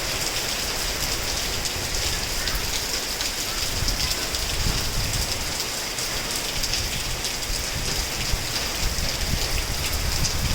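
Heavy rain falling steadily: a dense, even hiss of rain on surfaces with many small drop taps in it.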